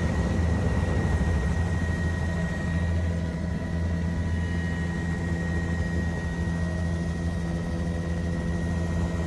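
Helicopter running steadily, heard from inside the cabin: a constant low drone of rotor and engine with a thin, steady high whine over it.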